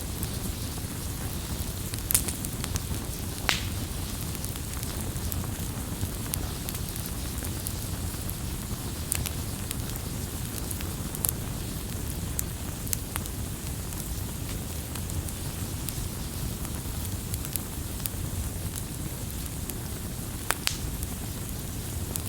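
Campfire burning with a steady low rumble of flames and scattered sharp crackles and pops, a few louder snaps standing out now and then.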